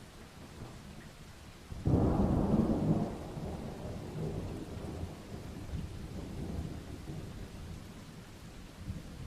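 Thunder over steady rain: a sudden loud crack-and-rumble about two seconds in, strongest for about a second, then rolling off into a long low rumble while the rain hiss goes on.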